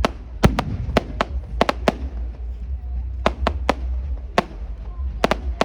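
Fireworks going off: a string of sharp cracks and bangs at irregular intervals, some in quick pairs and clusters, over a steady low rumble.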